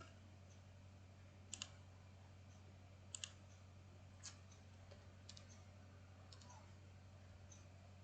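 Computer mouse clicking a handful of times, some in quick pairs, over a faint steady electrical hum.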